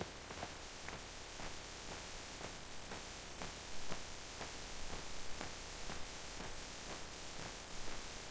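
A steady hiss with soft clicks or ticks about three a second.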